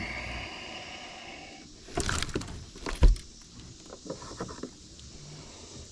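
Handling noise in a fishing boat while a fish is landed: a short whirring for about a second and a half, then several knocks and one heavy thump about three seconds in, followed by light clicks and rattles.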